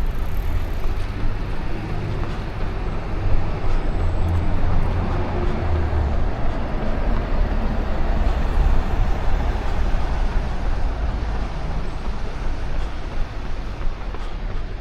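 City street traffic: vehicles running past in a steady low rumble.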